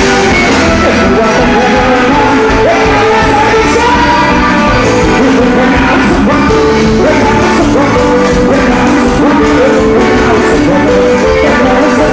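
Music with a voice singing a melody over accompaniment, loud and steady throughout.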